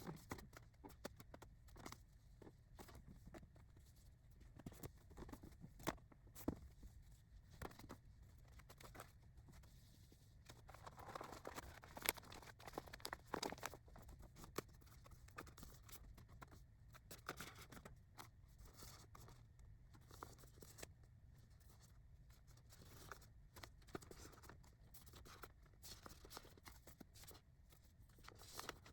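Faint handling noise of yarn skeins being taken from a tote and stacked on shelves: soft rustling with scattered light clicks and taps, and a longer rustle about eleven seconds in.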